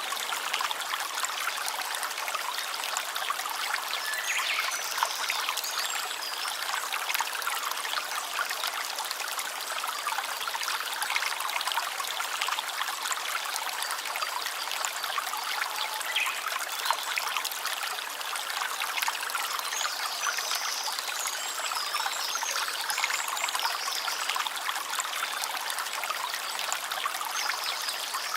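A small stream of water flowing and trickling steadily, with faint high chirps now and then.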